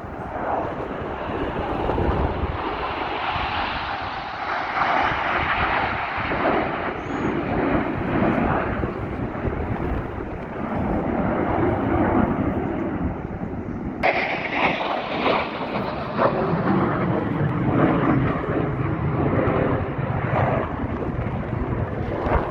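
Aerobatic airplane engine noise as aircraft fly past: a loud, rushing sound that swells and fades, turning suddenly brighter about two-thirds of the way through.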